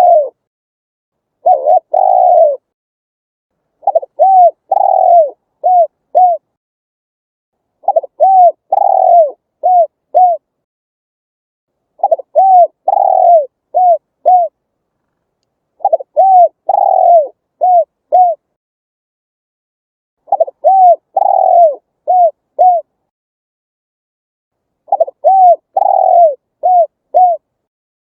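Spotted dove cooing: a phrase of about four or five low coos, repeated roughly every four seconds, with clean silence between the phrases.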